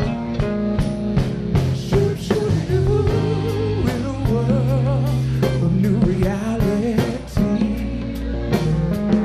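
Live soul-rock band playing: regular drum hits, a bass line and guitar, with long melody lines that waver in pitch, most likely a singer's wordless vocal.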